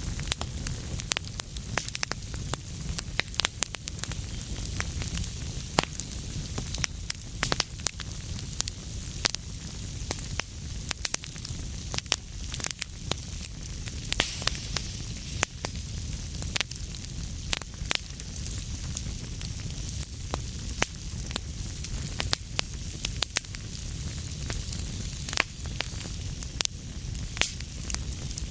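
Wood fire burning in a fireplace, with many sharp, irregular crackles and pops over a steady low rumble and hiss.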